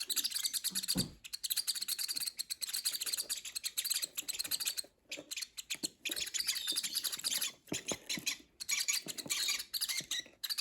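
A group of baby peach-faced lovebirds chirping together, with many rapid, high, overlapping chirps and a couple of brief lulls.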